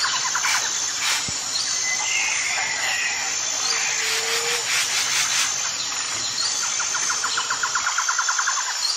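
Outdoor ambience of birds and insects calling: a rapid, even trill at the start and again near the end, with scattered chirps between.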